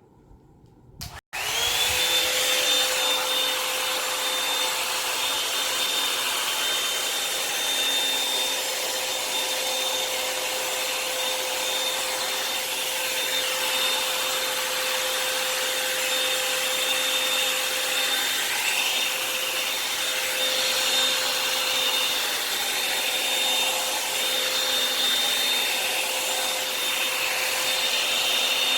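Revlon hot-air dryer brush on its high setting, switched on about a second in. Its motor whine rises quickly to a steady high whir with rushing air, then stops just at the end.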